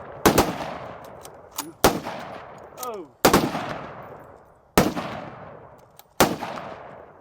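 Five gunshots about a second and a half apart, each with a sharp crack followed by a long fading echo.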